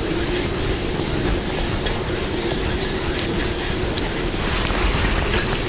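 Steady rain falling on a river's surface, a constant hiss with no break.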